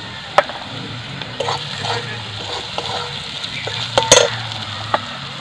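Onion and spice masala frying in oil in a metal kadai, stirred with a metal spatula: a steady low sizzle with several scrapes and taps of the spatula on the pan, the loudest about four seconds in.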